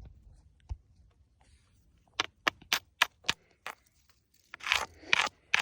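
Light clicks and scrapes of broken pieces of a smashed bird figurine: a quick run of about six small clicks, then a couple of rougher scrapes and one last click.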